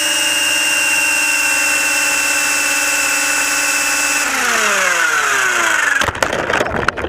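An RC helicopter's motor and rotor whine steadily at speed, then spin down with a falling pitch, ending in a burst of clattering knocks about six seconds in. It is a failed attempt to get airborne with a GoPro Hero 3 slung underneath, which the flier suspects is too heavy.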